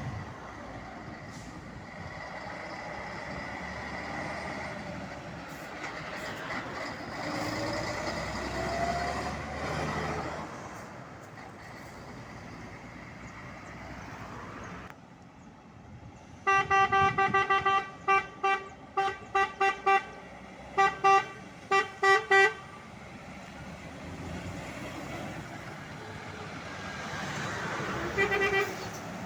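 A truck horn sounding in a rapid, uneven string of short blasts for about six seconds past the middle. Before it, a vehicle's engine and tyre noise, its pitch rising as it accelerates.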